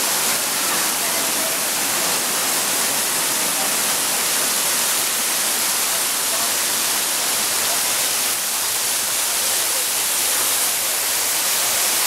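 Water jets of a fountain show spraying and splashing down, a steady even hiss.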